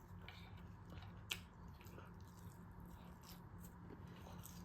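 Faint, quiet chewing and wet mouth clicks of someone eating a Chicken Big Mac sandwich, with one sharper click about a second in.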